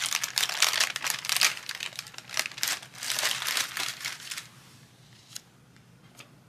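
Crinkling and rustling of planner sticker sheets being handled, stopping about four and a half seconds in, followed by a few faint clicks.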